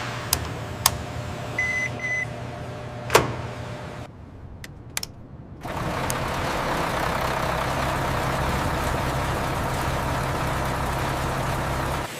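Steady machinery hum with a few sharp clicks and two short beeps in the first couple of seconds. It drops away around four seconds in, then a louder, even hum returns and holds.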